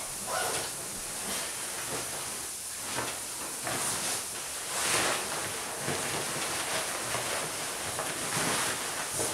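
Nylon sleeping bag rustling and swishing in irregular bursts as it is shifted about and stuffed into its sack, muffled by the camera's waterproof case.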